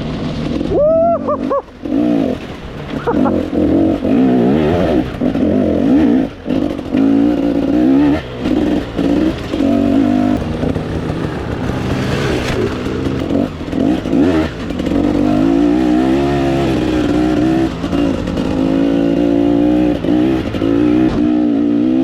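Dirt bike engine revving up and dropping back over and over as it is ridden, with short gaps where the throttle is shut off between pulls.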